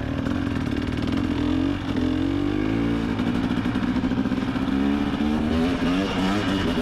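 Motocross bike engine running hard under acceleration, its pitch climbing for about two seconds, dropping back as it shifts up, then climbing again near the end.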